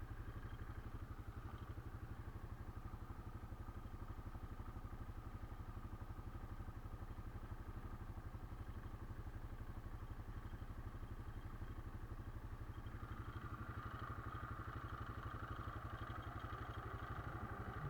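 Quad bike (ATV) engine running steadily with a low, even rumble. About three-quarters of the way through, a hiss joins it and grows louder.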